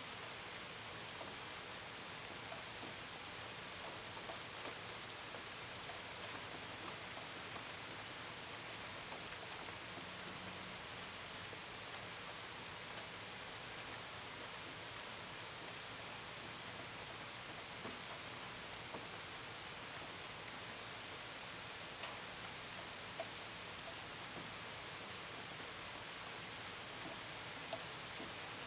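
Steady gentle rain with scattered drops pattering, and crickets chirping in an unbroken high, pulsing trill. A single sharper drop tick stands out near the end.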